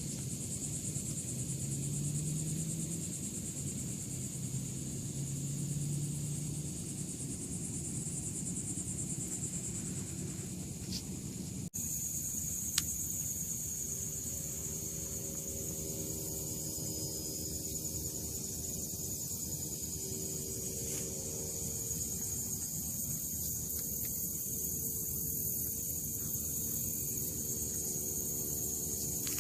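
A steady, high insect chorus with a low rumble of outdoor background underneath; about twelve seconds in the sound cuts abruptly, and the insect chorus is louder afterwards.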